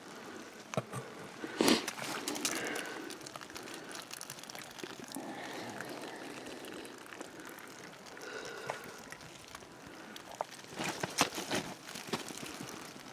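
Quiet rustling with scattered clicks and crackles of hands and a knife working inside a deer carcass during field dressing. There is a sharper snap a couple of seconds in and a quick run of clicks near the end.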